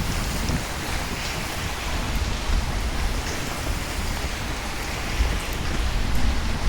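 Steady heavy rain falling on hard surfaces, with a low rumble underneath.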